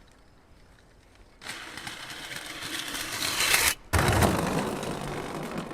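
A mini bike's bare metal rim rolling and scraping down a wooden ramp, a loud, rough rushing noise that builds for about two seconds, then a heavy impact about four seconds in, followed by more rough noise.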